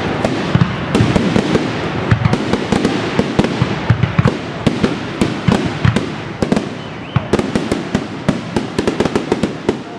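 Professional fireworks display: a dense, rapid barrage of bursting shells and cakes, with overlapping deep thuds and sharp cracks. The barrage thins slightly about seven seconds in.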